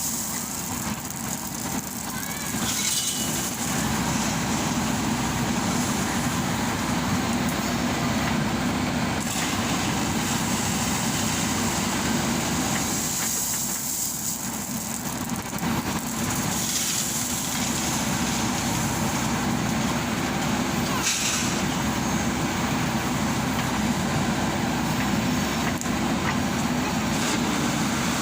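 JCB backhoe loader's diesel engine running steadily under working load, with a few short hissing bursts.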